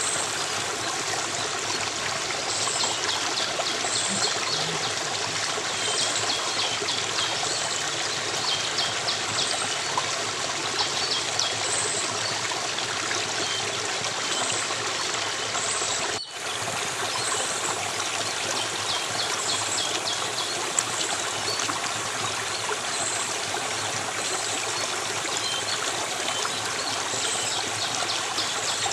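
Steady rush and trickle of a flowing stream, with short high chirps repeating over it. The sound drops out for an instant about sixteen seconds in.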